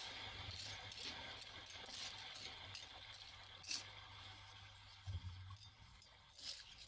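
Sparse light clinks, taps and scrapes of small hard objects, such as shells, glass and bits of washed-up debris, being handled and sorted by hand. A faint low hum runs beneath them.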